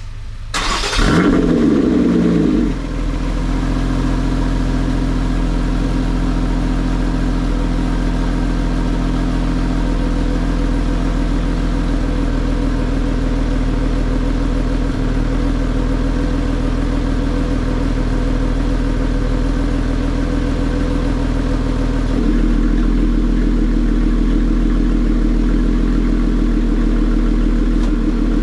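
Lotus Exige 380 Cup's supercharged V6 started through its repaired muffler. It catches, flares up briefly, then settles into a steady idle. About 22 seconds in, the idle note changes and gets a little louder.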